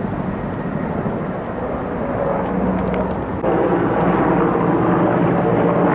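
A steady engine drone over rushing noise, stepping up sharply in loudness about three and a half seconds in.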